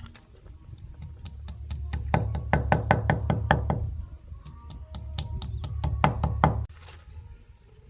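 Power tool running, a low motor hum under two spells of rapid knocks, several a second, both stopping abruptly near the end.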